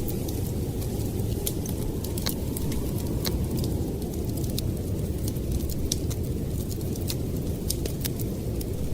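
Steady low rumble of blizzard wind with a wood fire crackling over it in scattered sharp pops.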